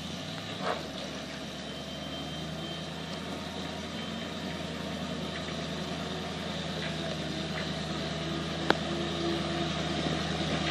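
1995 Ford F700 dump truck's engine idling steadily, growing slightly louder, with a sharp click near the end.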